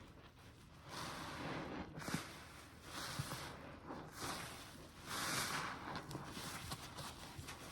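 A wet, soapy foam sponge squeezed by hand again and again: about five squishy, hissing squeezes, each lasting half a second to a second.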